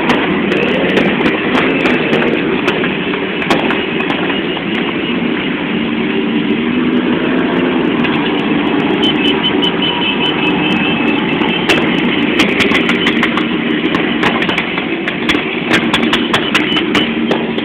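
Motorcycle engines running and revving, with scattered sharp clicks and pops.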